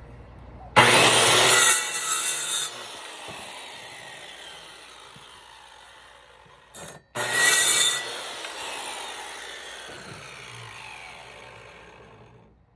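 Power saw cutting through a tree-limb stick twice, about six seconds apart. Each cut is a short loud burst, then the blade winds down with a slowly falling whine.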